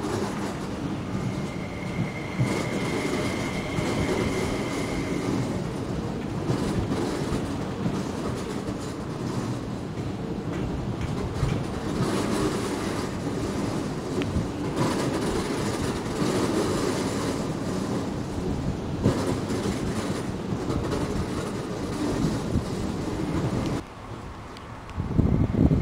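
MTR SP-1900 electric multiple unit rolling along depot tracks, wheels clattering over the rails and points, with a steady high-pitched tone from about a second and a half in to about five seconds in. Near the end the sound drops briefly, then comes back louder.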